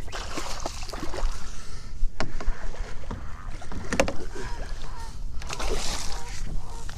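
Water splashing and sloshing around a fishing kayak with several sharp knocks, the strongest about two and four seconds in, as a hooked fish is brought in alongside.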